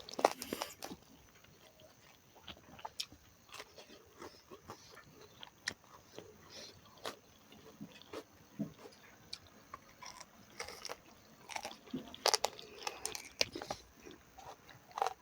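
Close-miked eating sounds: a person chewing and biting food, with irregular wet clicks and small crunches. A louder burst comes just after the start and another around twelve seconds in.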